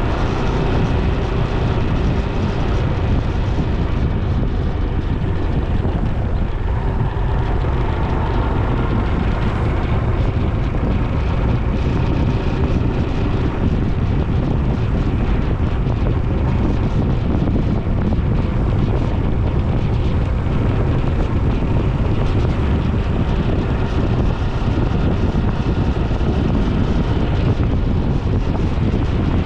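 Steady wind rush on an action camera's microphone during a road ride, with vehicle and road noise underneath.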